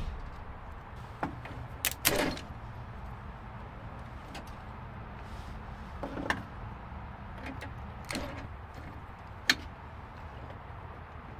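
A few short, scattered clicks and knocks over a low steady hum, the sharpest about nine and a half seconds in.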